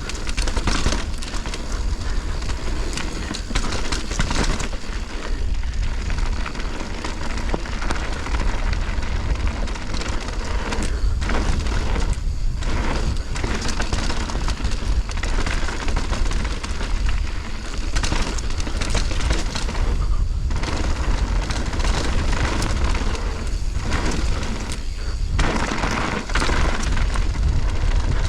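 Wind buffeting the ride-along camera's microphone on a fast mountain bike descent, with tyres rolling on dirt and the bike knocking and rattling over rough trail.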